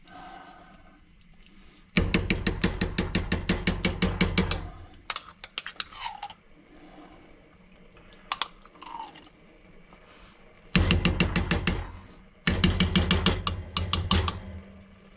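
A spoon stirring soup in a pot, clinking rapidly against its sides at about seven strokes a second in three spells. It is stirring in the chicken bouillon paste just added.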